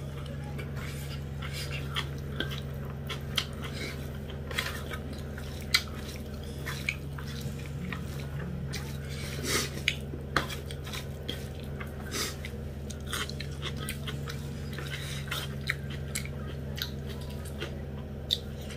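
A person chewing a mouthful of rice and dried buffalo-meat curry, with wet mouth clicks and smacks scattered irregularly throughout, over a steady low hum.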